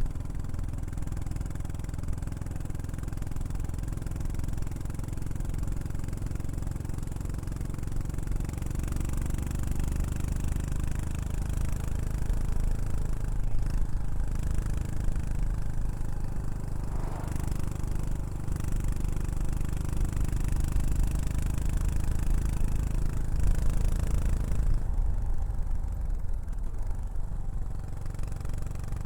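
Yamaha SR400's single-cylinder engine running through a Prunus aftermarket muffler, a steady exhaust note whose pitch shifts about a third of the way in and again near the end.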